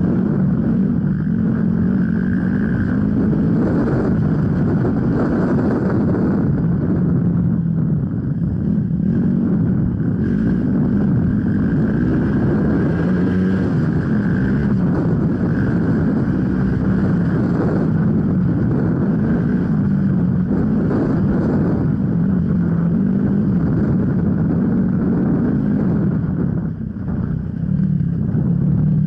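Off-road motorcycle engine running hard while being ridden, its revs rising and falling continually. The level drops briefly near the end.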